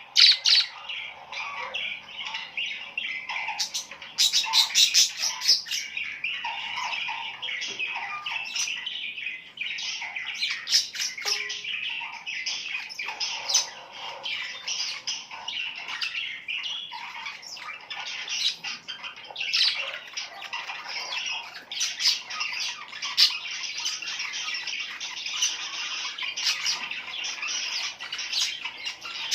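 Many birds chirping and squawking together, a dense chorus of short, overlapping high calls that keeps up without a break.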